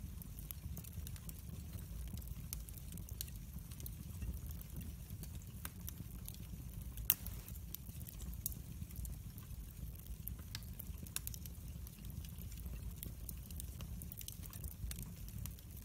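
Wood fire burning in a fireplace, crackling with scattered sharp pops over a steady low rumble of the flames; one louder pop about seven seconds in.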